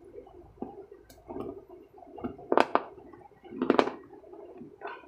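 Close-up chewing with the mouth closed: irregular wet smacks and squelches, with a few sharper louder smacks about two and a half and three and a half seconds in.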